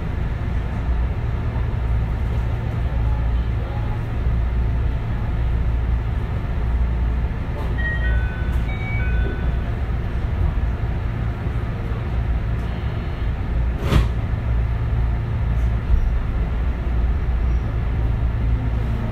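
JR West 221 series electric train running, heard from inside the car: a steady low rumble of wheels on rail. A few short high tones sound about halfway through, and a single sharp clack comes about three-quarters of the way in, with a fainter one shortly after.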